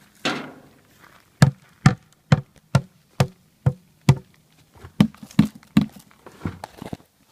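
A drum beaten in a steady rhythm of about two sharp knocks a second, opening with a longer ringing hit and growing looser and quicker near the end.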